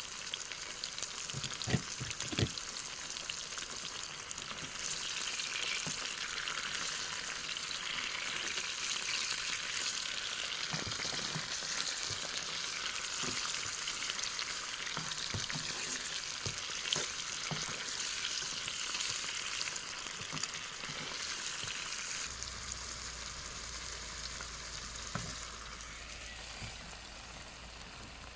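Food sizzling as it fries in a pan, with scattered light knocks from a utensil stirring it.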